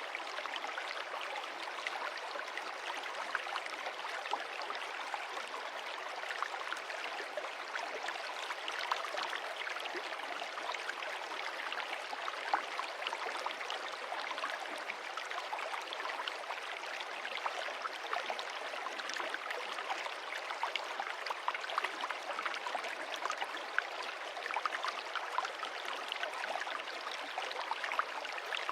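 Stream water running and splashing over stones, a steady rushing with many small splashes and no pauses.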